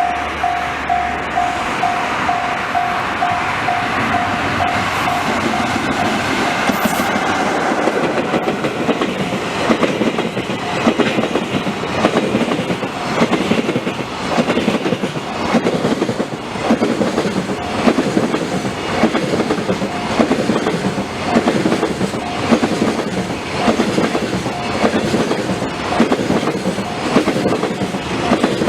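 Train passing close by on the Tōkaidō Main Line, its wheels clicking over the rail joints in a steady, regular clickety-clack for about twenty seconds. A level-crossing alarm dings repeatedly at the start and fades under the train noise about six seconds in.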